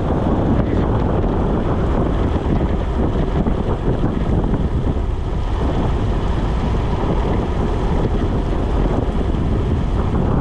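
Loud, steady wind rushing over the microphone of a bicycle descending at speed.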